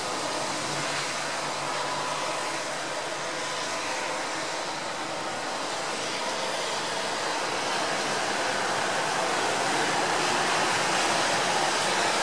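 Steady rain falling, a continuous hiss that grows a little heavier in the second half.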